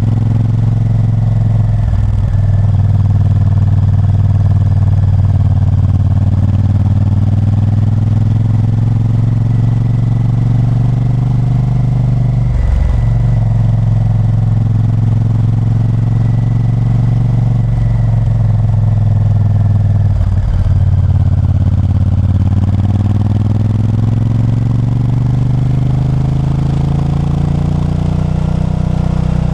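Honda Varadero 1000's 90-degree V-twin engine under way, its note dropping out briefly three times as gears change, then revs climbing steadily near the end as the bike accelerates.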